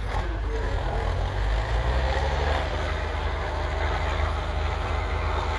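Vintage tractor engine running steadily at work, growing louder about one to two seconds in.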